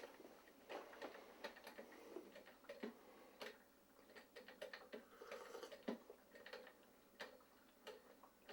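Near silence with faint, irregular small clicks and ticks scattered through it.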